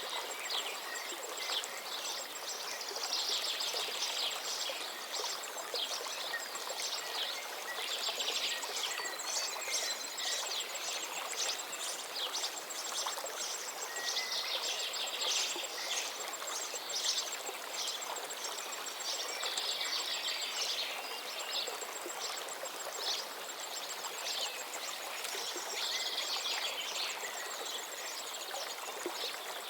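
Stream of water running steadily, with birds singing in short bursts of chirps every few seconds. A thin, fast, high-pitched pulsing trill runs through much of it.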